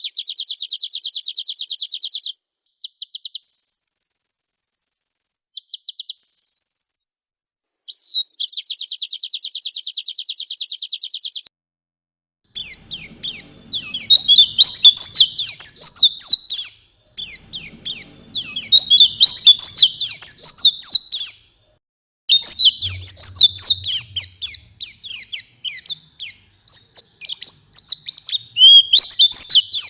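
White-eye (pleci) singing: in the first part, short bursts of a very fast, even trill and a high, hiss-like buzz, the fill-in phrases; then, from about twelve seconds in, three or four long bursts of rapid, jumbled twittering song.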